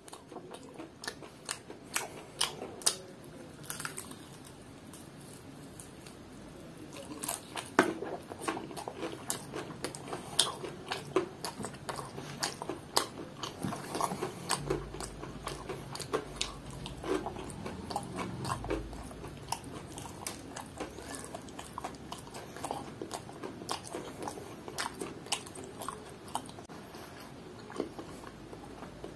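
A person biting and chewing crispy deep-fried chicken close to the microphone, with many small crunches.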